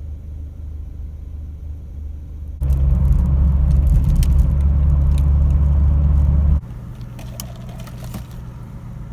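Peugeot 306 XSi on the road: a steady low rumble of engine and road noise. A few seconds in it turns abruptly much louder for about four seconds, with scattered ticks and rattles, then drops back to the quieter rumble.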